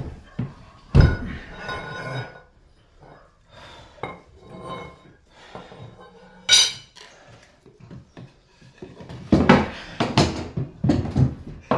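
Hammer knocks and metal clinks as a nail is worked out of wooden trim. There is a loud knock about a second in, a sharp click past the middle, and a quick run of knocks near the end.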